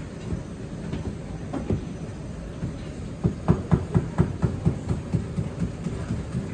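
Someone chewing crunchy fried chicken close to the microphone, a quick run of low crunches at about four a second starting about three seconds in, over a steady low kitchen hum.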